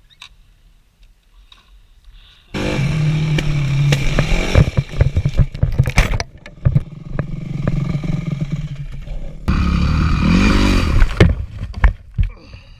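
Dirt bike engine running hard close to the microphone, cutting in suddenly about two and a half seconds in, with many sharp knocks and scrapes over it. Its pitch changes and wavers up and down near the end before it drops away.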